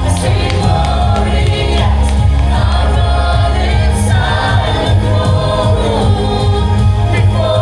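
Live gospel worship music: a band with a steady bass under a choir of voices singing a praise song.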